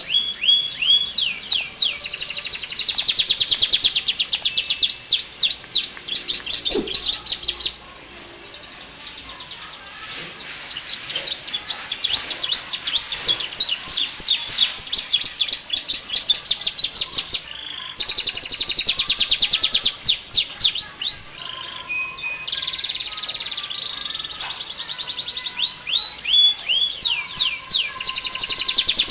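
Canary singing a loud, full-repertoire song: long runs of very fast trills and repeated-note phrases, broken by a couple of short quieter lulls, of the kind used as a tutor recording for training other canaries.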